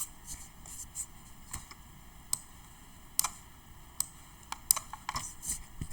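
About a dozen light clicks and taps, irregularly spaced over a few seconds, with the sharpest one about three-quarters of the way through.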